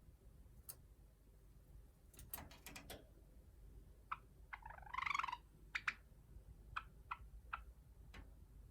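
Cream Java sparrow singing softly: a few rapid clicking notes, then a short warbled phrase about halfway through, followed by a string of single short chirps.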